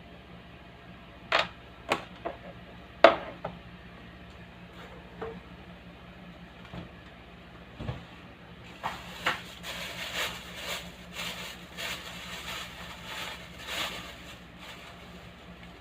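Steady low electrical hum of a speaker, with a few sharp knocks and clicks in the first three seconds and a longer run of quick clicking and rustling of handling from about nine seconds in.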